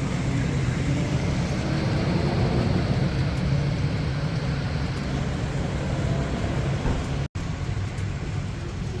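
Harley-Davidson Electra Glide's Milwaukee-Eight V-twin running under way, mixed with rushing wind noise. The sound breaks off abruptly about seven seconds in and resumes slightly quieter.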